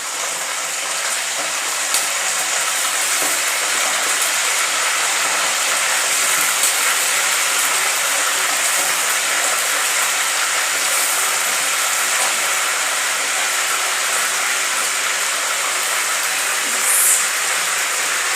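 The last batch of chicken pieces frying in hot oil: a steady sizzle that builds over the first couple of seconds, with a few pops, one louder near the end.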